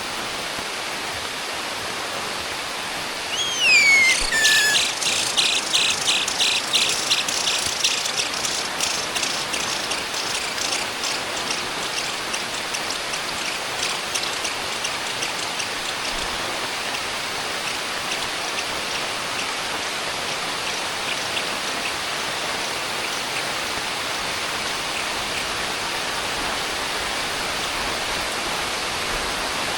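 Heavy rain falling steadily. About three seconds in, a bird gives a downward-sliding whistled call, followed by a fast run of short, high chirps that fade away over the next fifteen seconds or so, typical of nestlings begging.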